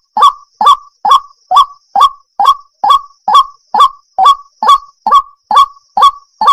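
Water hen calling: a steady run of short, identical calls, a little more than two a second, evenly spaced.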